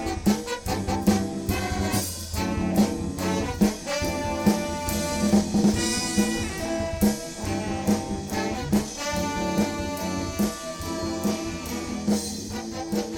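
Live band playing an instrumental passage: a horn section of trumpet, trombone and saxophone plays held lines over a drum kit keeping a steady beat.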